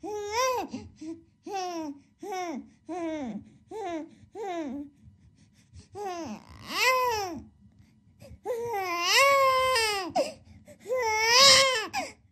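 A baby crying: a run of short rising-and-falling wails about one every half second, then three longer, louder wails.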